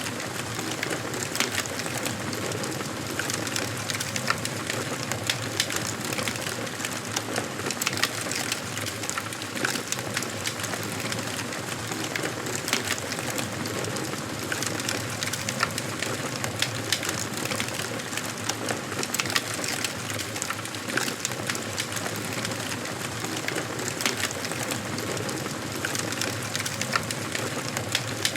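Wood fire burning in a fireplace: a steady hiss with frequent sharp crackles and pops of the burning wood.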